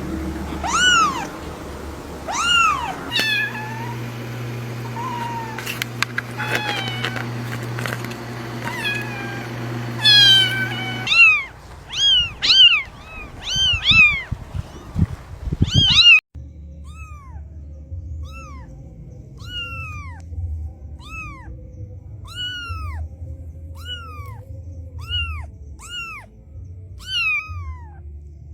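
Cats meowing over and over, each call a short rise and fall in pitch. In the first part the meows overlap with a steady low hum. Later a single high-pitched meow repeats about once a second.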